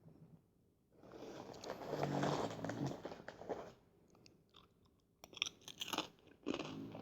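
Close-miked crunching of Fritos corn chips being bitten and chewed. There are two bouts, with a short lull in the middle.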